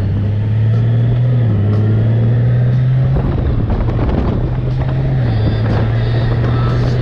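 2020 Honda Gold Wing's flat-six engine running under way, its steady low note stepping up twice in the first few seconds and settling slightly lower after about five seconds.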